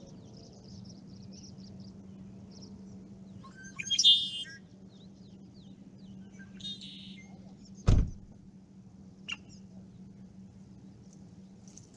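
Wild birds calling by a lake: a loud harsh call about four seconds in, a shorter call near seven seconds and small chirps in between. A sharp knock about eight seconds in is the loudest sound, with a steady low hum underneath.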